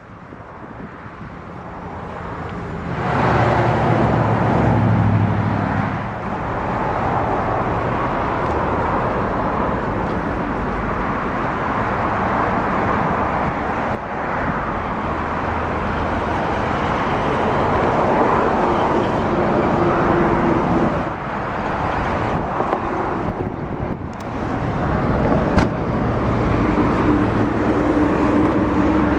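Outdoor road traffic noise, with a vehicle passing about three seconds in and a steady rush of traffic after it.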